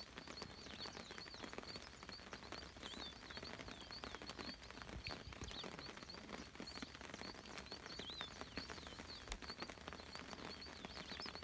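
Birds giving short high chirps over and over, with a steady patter of raindrops.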